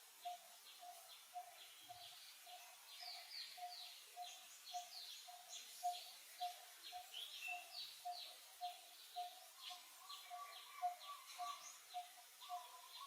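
Faint birdsong outdoors: many short, quick chirps over a low note repeated evenly about three times a second. A steady held tone joins in from about ten seconds in.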